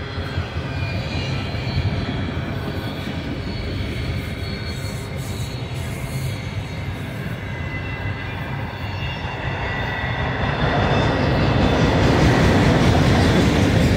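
Freight train of autorack cars rolling past at close range: a steady rumble and clatter of steel wheels on the rails, with faint high-pitched wheel squeal. It grows louder over the last few seconds.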